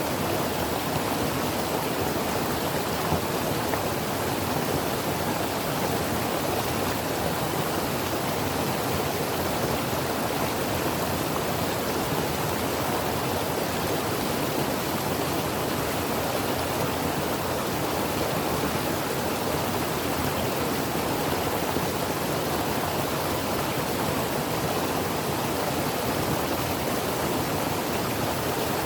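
Creek water running over rocks: a steady, even rush.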